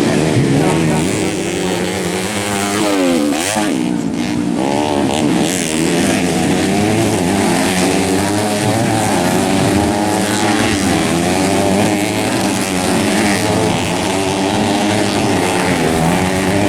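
Several dirt-bike engines racing at once, their pitch rising and falling again and again as riders open and close the throttle through the track's corners and straights.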